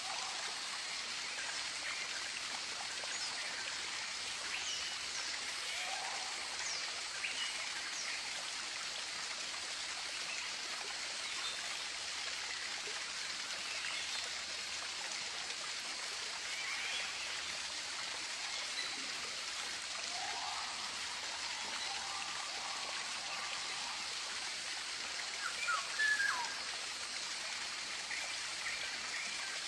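Steady rush of running water like a stream, with short calls from tropical birds scattered over it. The calls are slightly louder in a brief cluster near the end.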